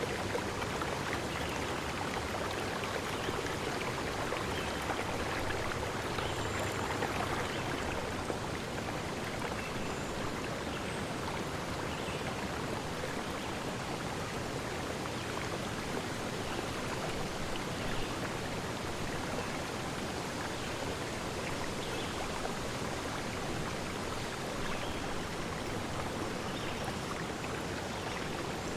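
Steady rushing of flowing stream water, with a few faint, short high-pitched sounds now and then.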